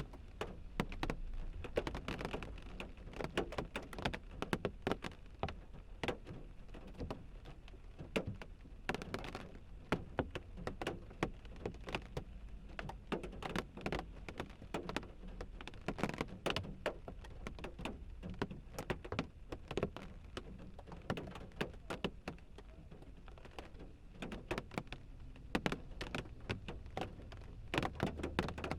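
Rain falling on a car windshield: irregular drops tapping on the glass over a low rumble.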